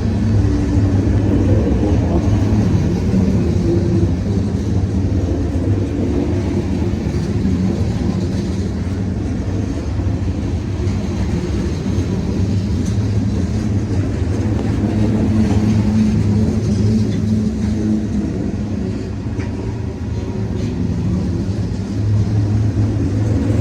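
CSX diesel-hauled freight train moving along the track: a steady, loud low rumble with a drifting engine drone.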